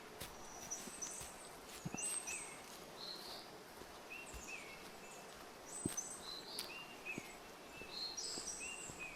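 Forest birdsong: short, high chirping phrases repeating about once a second over a soft background hiss, with faint scattered footsteps on a forest path.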